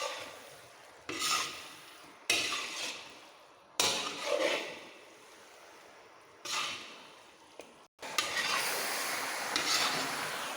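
Large ladle stirring and scraping chicken pieces around a big kadai: about five separate scrapes, each dying away, then a steadier sizzle of the chicken frying in its masala.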